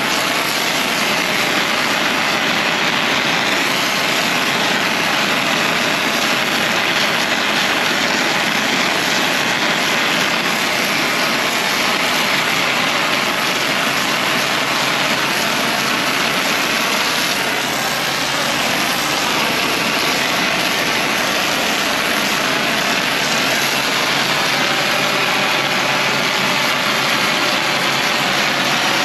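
Pressure-washing equipment's engine running steadily, with a constant hiss.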